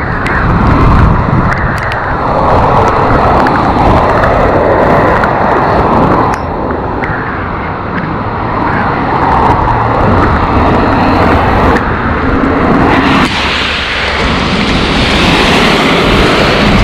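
Road traffic noise mixed with wind rumbling on the microphone. A brighter, louder hiss, like tyres on a wet road, sets in near the end.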